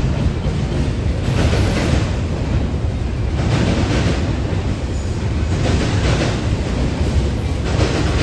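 A train passing close by: a steady, loud rumble of wheels rolling on rail, swelling and easing in a regular beat about once a second.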